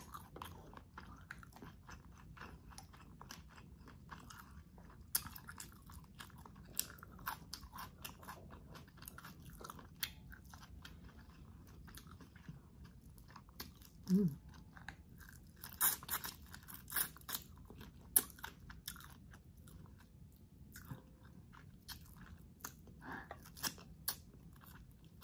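Close-miked eating sounds: chewing and wet mouth smacking of spicy squid adobo and shell-on shrimp, with many sharp irregular clicks and a few louder crunches about 16 to 18 seconds in. There is a short hum about 14 seconds in.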